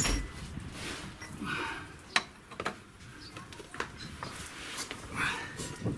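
A few scattered light clicks and knocks as a bolt is worked into the mounting of a car's front lower control arm.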